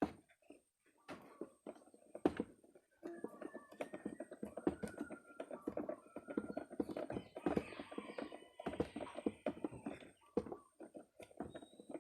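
Hand work on small plastic parts: scattered clicks and taps, then several seconds of close scraping and rustling with faint squeaks from about three seconds in.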